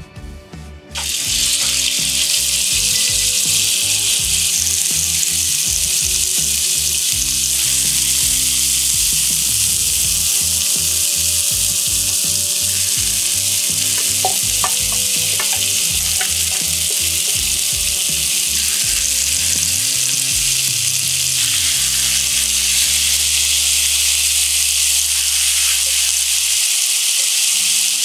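Chicken pieces, lotus root and burdock frying in hot oil in a frying pan, a loud steady sizzle that starts suddenly about a second in as the first ingredients hit the oil.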